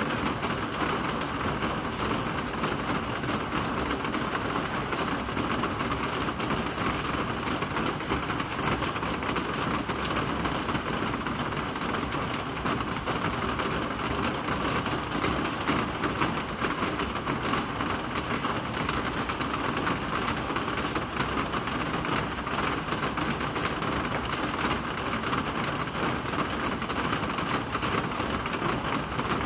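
Rain falling steadily: a dense, even patter of drops that holds the same level throughout.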